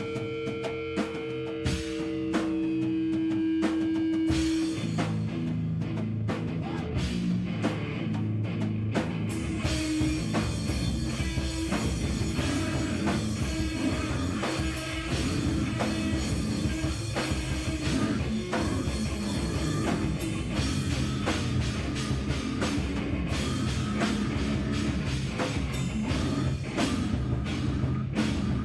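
Loud live heavy rock band playing drum kit and electric guitar. It opens with held guitar notes over scattered drum hits, and the full band comes in about five seconds in and plays on densely.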